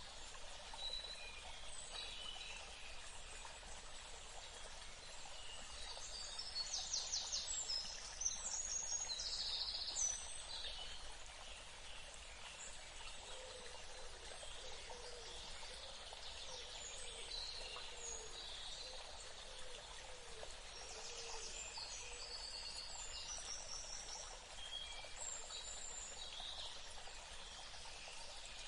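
Several wild birds calling and singing over a steady background hiss. There is a rapid trill and a burst of calls a quarter of the way in, and a run of lower repeated calls in the middle.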